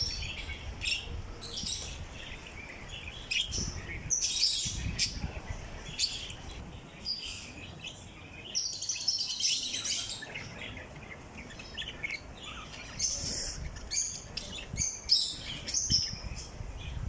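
Many small caged birds chirping and chattering in quick, short, high calls, busiest around the middle and again toward the end.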